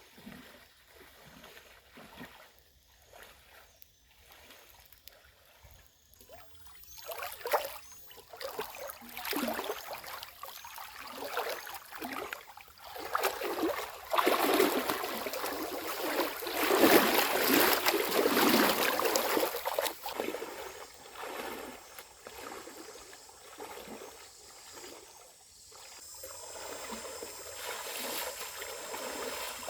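Water splashing and trickling, quiet at first, then louder and busier about halfway through before easing off.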